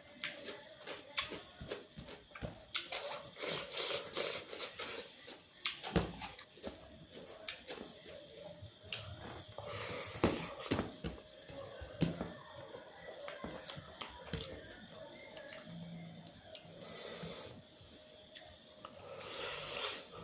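Close-miked eating: chewing and mouth smacking, with many small sharp wet clicks and hissy breaths between bites.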